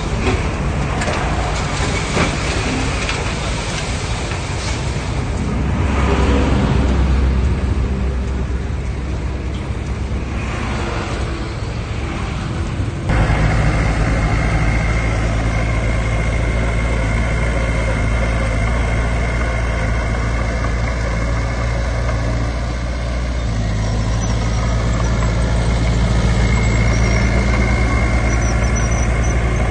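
Heavy diesel earthmoving machinery at work. A rough, shifting rumble with rushing noise gives way abruptly about halfway through to a steady diesel engine drone carrying a high, even whine.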